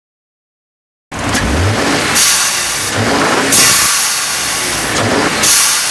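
Turbocharged engine revving in short blips, with bursts of loud hissing like blow-off valve venting between the revs, starting about a second in after silence.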